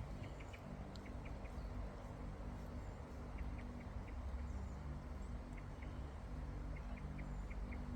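Faint outdoor background with scattered brief, high bird chirps.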